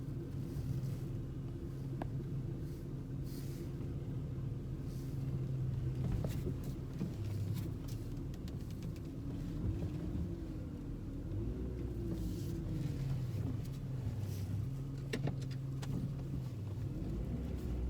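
Car engine running with a steady low hum. From about halfway through, its pitch wavers up and down as the car is driven.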